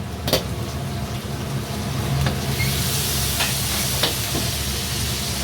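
Food frying in a hot wok in a restaurant kitchen. The sizzle swells about halfway through, with a few sharp metal knocks of a utensil against the pan over a steady low rumble.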